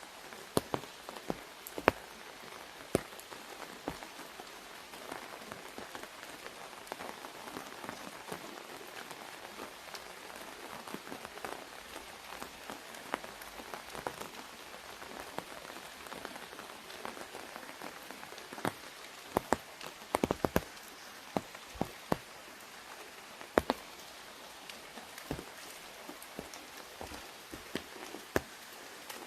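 Rain falling on an umbrella overhead: a steady patter with many sharp, separate drop hits on the canopy, a quick run of heavier hits about two-thirds of the way through.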